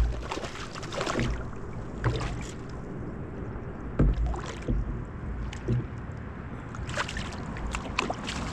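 Irregular knocks and thumps on a kayak hull as gear is handled aboard, the loudest at the very start, over a steady bed of wind and water noise.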